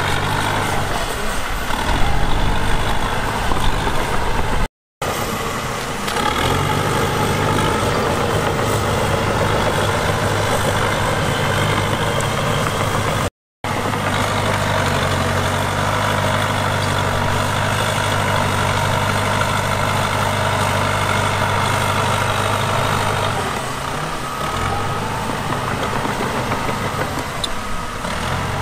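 Heavy diesel earthmoving machinery running steadily, its engine hum easing and picking up a few times. The sound cuts out completely for a moment twice, about 5 and 13 seconds in.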